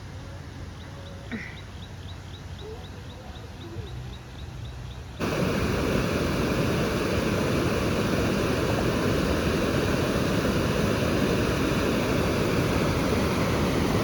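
Quiet outdoor ambience with a fast, even, high-pitched chirping, about five a second. About five seconds in, it cuts suddenly to the loud, steady rush of a waterfall.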